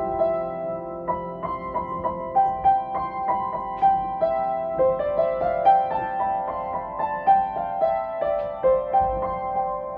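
Piano music: a slow melody of single struck notes over sustained lower tones.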